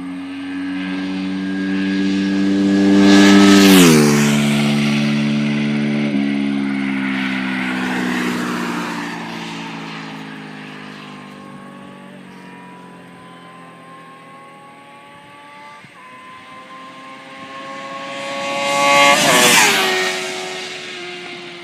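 Two sport motorcycles, a Ducati S4R V-twin and a Suzuki GSX-R600 inline-four, accelerate past one after the other at speed. Each engine note rises as it nears and drops sharply in pitch as it goes by, once about four seconds in and again near the end, with upshifts heard as the second bike approaches.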